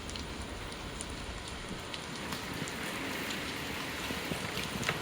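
Steady rain falling, a continuous patter with scattered drip ticks.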